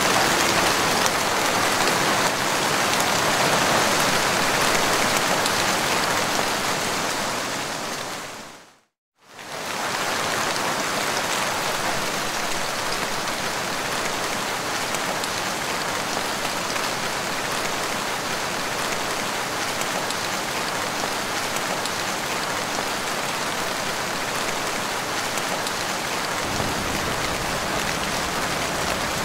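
Steady heavy rain, an even hiss of many drops. It fades out to silence about nine seconds in and fades back in a moment later as a new rain recording. Near the end a deeper rumble joins the hiss.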